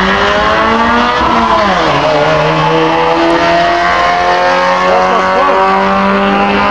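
Car engine accelerating hard down a drag strip. Its revs climb, drop sharply at a gear change about two seconds in, then hold a steady high note.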